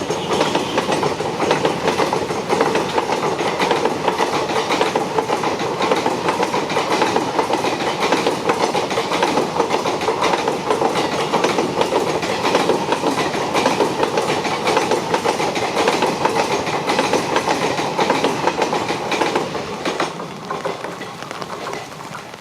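Express passenger train's coaches rushing past at speed, wheels clattering rapidly over rail joints, with the noise falling away over the last couple of seconds.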